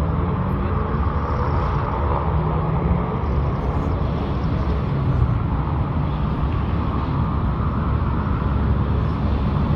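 Aircraft jet engines running on the ground at an airfield, a steady loud rumble without pauses.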